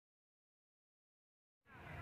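Near silence: dead air after background music cuts off, with faint background noise fading in near the end.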